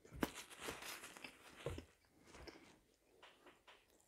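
A person chewing a mouthful of food close to a lapel microphone: irregular short, wet mouth sounds, busiest in the first two seconds, then fading to a few faint clicks.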